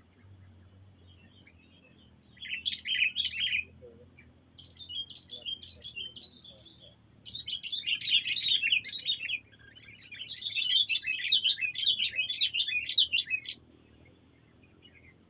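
Small songbird singing in four chattering phrases, the second half longer and louder than the first.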